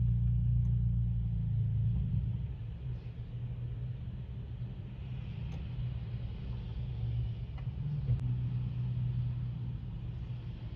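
Car engine idling, heard from inside the cabin as a steady low rumble, a little louder for the first couple of seconds.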